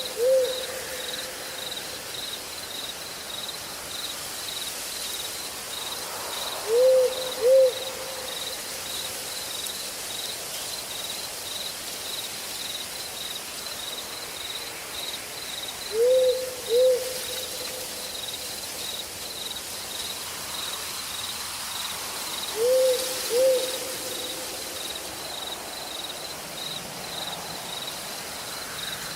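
An owl hooting four times, each call a quick pair of low hoots that trails off into a short held note, several seconds apart. Behind it, insects chirr steadily in a high, rapid, pulsing trill.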